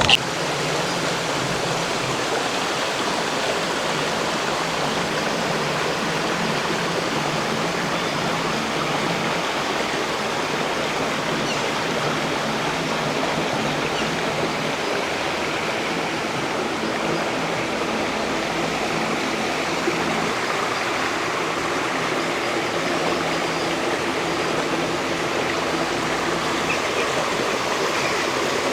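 Steady rush of running water, an even noise that holds at one level throughout.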